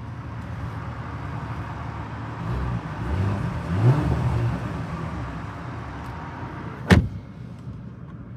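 2024 Porsche Macan S twin-turbo V6 idling in normal drive mode, then revved once, its pitch rising to a peak about four seconds in and falling back to idle. A single sharp crack comes about seven seconds in.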